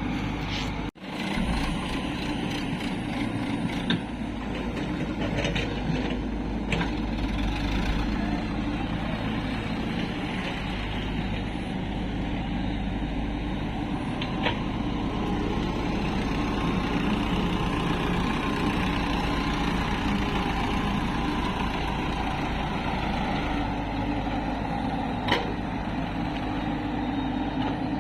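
Heavy diesel engines of an excavator and tractors running steadily while mud is loaded, with a brief break about a second in and a few short sharp knocks.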